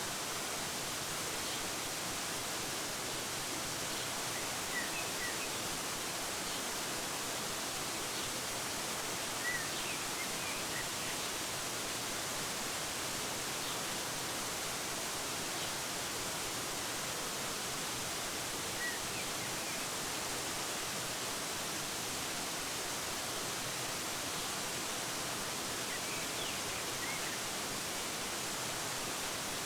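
Waterfall rushing steadily, with a few short, faint bird chirps here and there.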